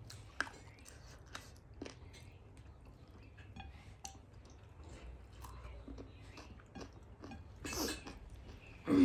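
Close-miked eating sounds of a person eating rice by hand: many small wet clicks and smacks from chewing and from fingers working the food on the plate, with one louder noisy burst near the end.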